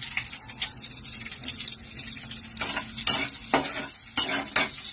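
Garlic sizzling in hot oil in a metal wok, stirred with a metal spatula that scrapes and knocks against the pan several times in the second half.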